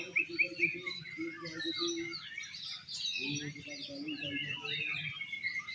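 Oriental magpie-robins (kacer) singing in a contest chorus: a dense jumble of varied whistles and chirps, opening with a quick run of repeated notes.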